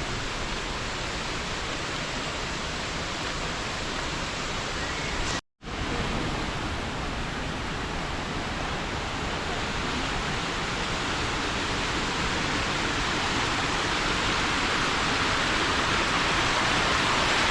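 Steady roar of Aberdeen Falls, a waterfall in heavy flow after rain. It drops out for a moment about five seconds in, then grows slowly louder.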